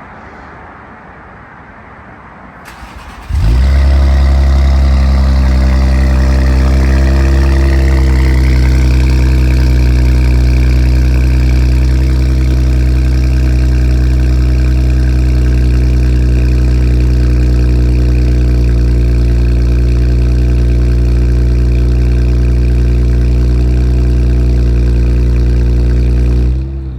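Infiniti Q50's twin-turbo VR30 3.0-litre V6 cold-starting about three seconds in, heard at the exhaust: it fires suddenly and settles over a few seconds into a loud, steady idle after sitting all day.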